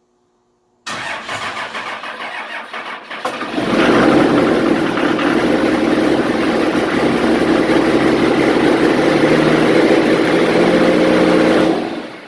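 Diesel truck engine cranking with an uneven pulse on weak batteries, then catching about three seconds in and running steadily and loud. It is a cold start after the truck has sat for about a year. The sound falls away near the end.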